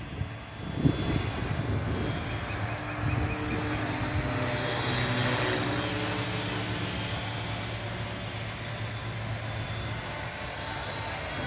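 Align T-Rex 700E electric RC helicopter in flight: a steady hum of its rotor and motor, with slight shifts in pitch.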